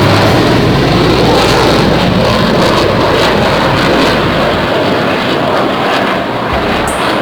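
Military aircraft flying over at an air display: loud, steady engine noise that eases slightly near the end.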